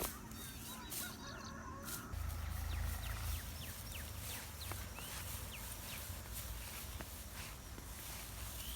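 Faint bird calls, then a low rumble from about two seconds in.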